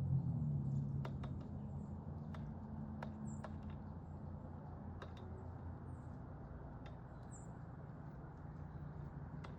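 Small birds at a backyard feeder: scattered sharp taps and clicks, with two brief high chirps a few seconds apart. Underneath, a low rumble fades over the first few seconds.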